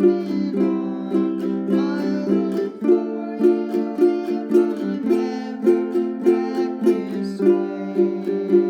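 Ukulele strummed in a steady shuffle strum, chording through a simple song with a strong stroke about twice a second.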